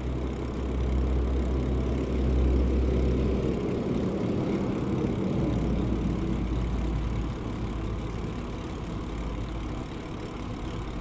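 Wind rumbling and buffeting on a GoPro's microphone while riding a bicycle, a steady low rumble that eases briefly about four seconds in.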